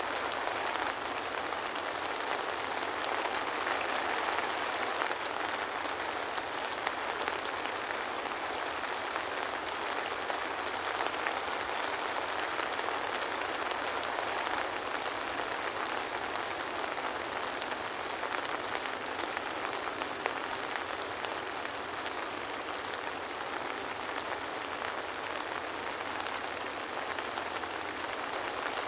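Steady soft rain falling, with no thunder: an even hiss of rainfall with fine scattered drop ticks.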